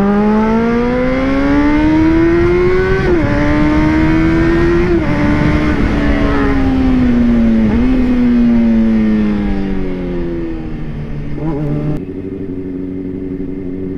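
Honda CBR600RR's inline-four engine pulling away, its pitch rising steadily with two upshifts about three and five seconds in. The revs then ease down gradually and settle to a lower steady note for the last few seconds.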